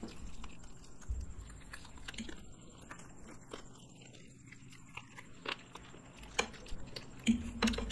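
Close-miked eating: people chewing and biting into fried chicken and black bean noodles, with scattered short clicks of mouth and food noise and a few louder moments near the end.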